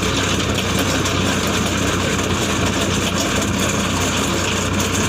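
Tractor engine running steadily, with a continuous low hum and no change in speed.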